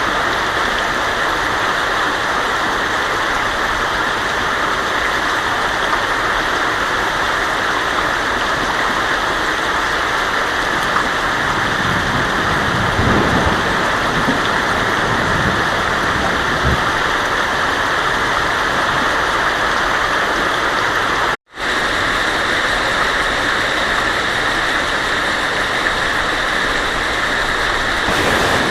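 Heavy rain drumming steadily on a tin roof, with a low rumble of thunder about halfway through. The sound drops out for an instant about two-thirds of the way in.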